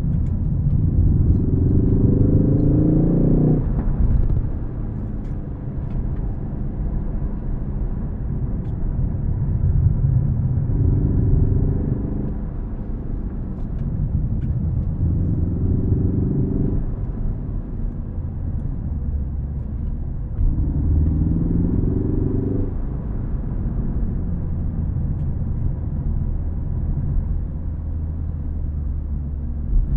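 Ford Focus ST's turbocharged four-cylinder engine pulling hard four times, its pitch rising each time, then dropping off as the driver lifts or shifts. Between the pulls it runs at a steady, lower drone over road rumble.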